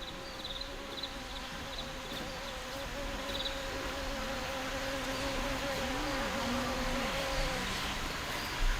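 A flying insect buzzing: a steady, slightly wavering hum that fades out near the end, with faint high chirps in the first few seconds.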